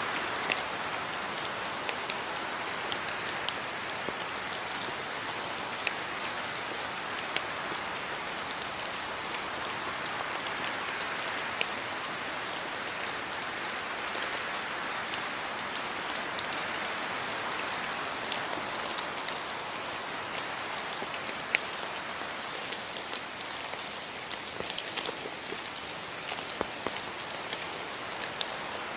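Steady rain falling, with a constant hiss and many sharp drop ticks on hard surfaces close by.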